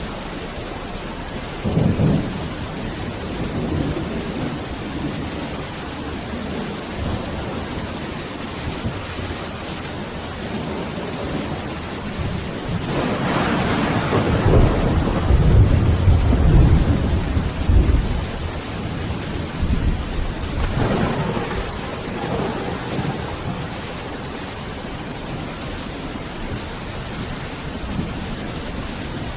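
Steady heavy rain falling, with rolling thunder: a short low rumble about two seconds in, a long loud rumble swelling up about halfway through, and a smaller one a few seconds later.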